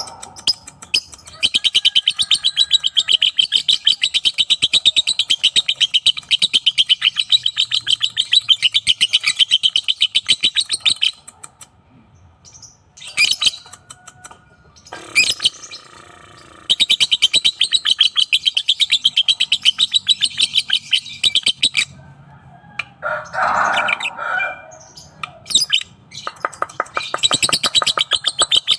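Lovebird singing in long, fast chattering runs of high chirps, the long-duration song that fanciers breed and train for. The first run lasts about ten seconds, a second about five, and a third starts near the end. Short calls and one lower, rougher call come between the runs.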